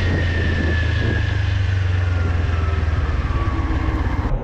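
Motorcycle engine running with a steady low hum and a thin whine that slowly falls in pitch. The sound changes abruptly near the end.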